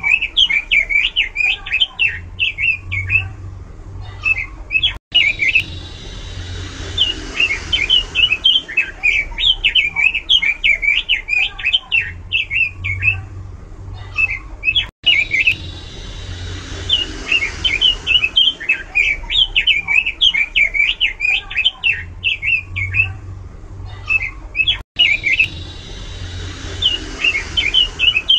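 Pekin robin (red-billed leiothrix) singing loudly, rapid chirping and warbling phrases in runs of a few seconds with short pauses. The same stretch of song repeats about every ten seconds, each time after a brief dropout, as in a looped recording.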